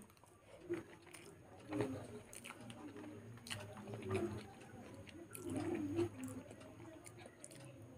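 A person chewing a mouthful of rice and curry, with wet mouth smacks and scattered short clicks.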